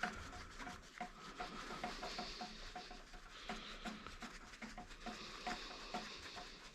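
Faint rubbing with a run of light, irregular clicks, several a second.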